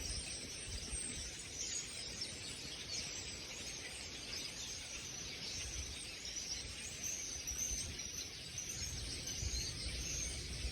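A flock of small birds chattering, with many high chirps overlapping into a steady chorus over an outdoor hiss and low, uneven wind rumble.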